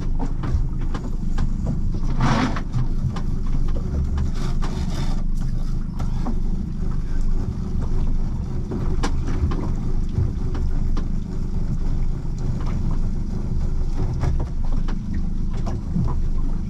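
Steady low wind and water rumble around a small boat, with scattered knocks and rustles and a louder brief scrape about two seconds in, as the anchor rope is hauled in by hand.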